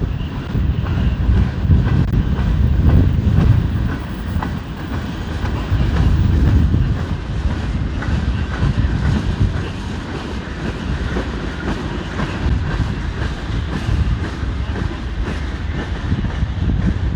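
Freight train rolling past, with a steady low rumble and wheels clicking over the rail joints.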